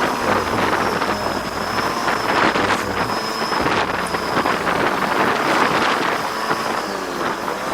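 Wind rushing over the microphone on a moving motorcycle, with the engine running underneath.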